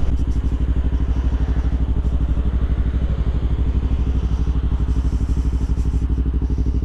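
Motorcycle engine idling steadily, a low, even, rapid pulse.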